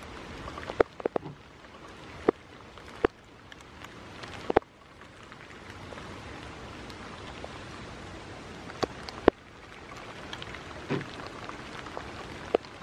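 Steady rain hiss, with about ten sharp, irregular taps of drops striking a surface close by.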